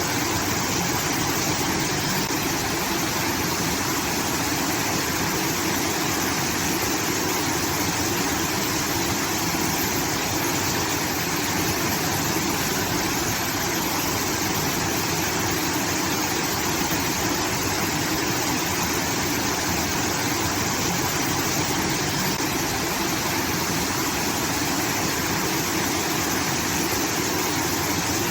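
Water from a rice-field irrigation outlet pouring and rushing steadily, like a small waterfall.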